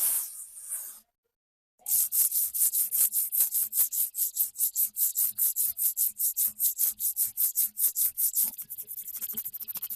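Rapid back-and-forth abrasive rubbing strokes, about six a second, beginning after a brief silence about two seconds in; near the end they turn quieter and quicker.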